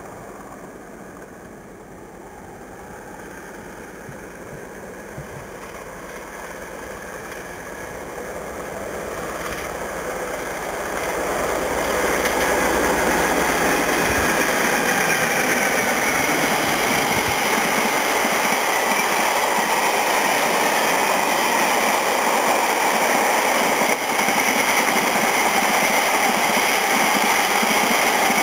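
Class 60 diesel locomotive approaching at the head of a tank train, its engine growing steadily louder over about twelve seconds, then running loud and steady as the train passes close by.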